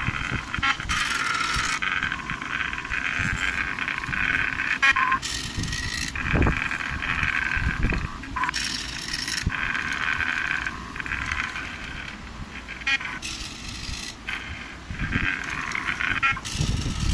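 X-Carve CNC machine running, its motors whining in stretches that start, stop and change pitch every second or so as the axes move, with short hissy bursts in between.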